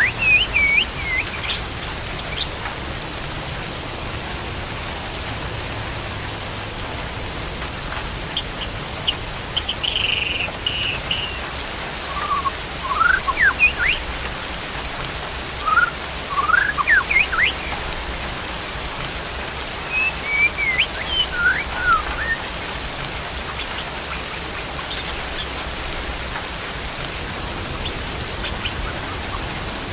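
Steady rain with a songbird giving short whistled phrases of quick rising and falling notes, in scattered bursts every few seconds.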